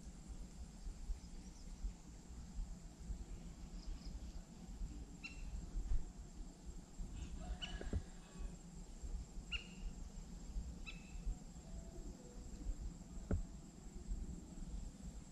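A few short bird chirps, about five spread through the middle of the stretch, over a low rumble and a steady thin high-pitched whine.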